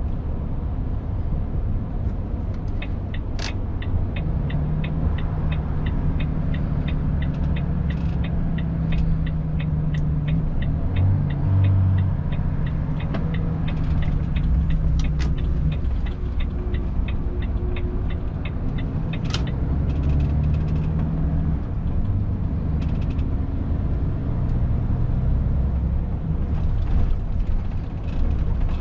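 Cab interior sound of a Volvo FH 500 truck driving, with the steady rumble of its 13-litre straight-six diesel and the road. For about ten seconds, starting a few seconds in, a turn indicator ticks evenly, about three to four ticks a second.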